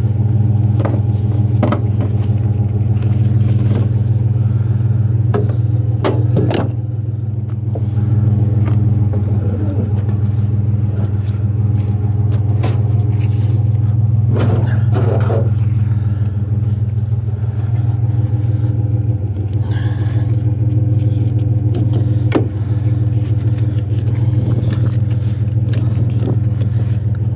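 Truck engine idling steadily, with a few knocks and clatters of an appliance being handled, the loudest about six and fifteen seconds in.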